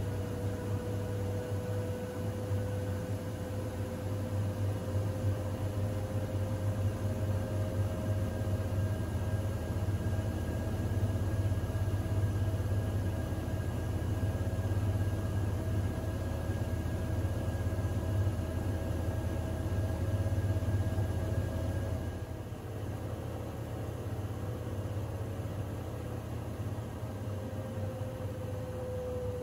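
Siemens iQ700 washing machine running, a steady motor whine over a low hum. The whine rises slightly at first, holds, and eases off about twenty-two seconds in; near the end a tone slides down in pitch.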